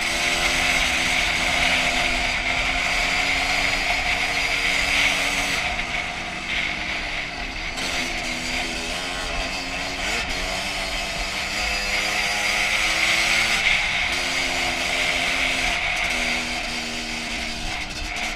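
Single-cylinder two-stroke engine of a 2001 Honda CR250 dirt bike being ridden, its pitch rising and falling with throttle and gear changes, with several brief drops in revs.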